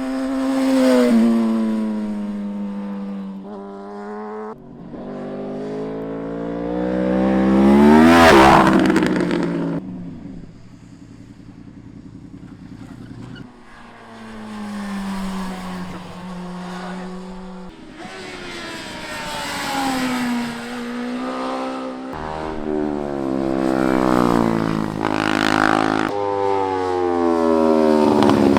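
Superbike engines revving hard, in several waves: the pitch climbs steeply to a high-rev peak and then falls away, with a quieter spell of coasting in the middle.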